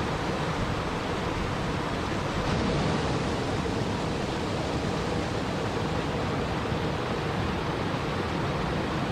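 Steady rushing water, an even, unbroken hiss with a slight swell about two and a half seconds in.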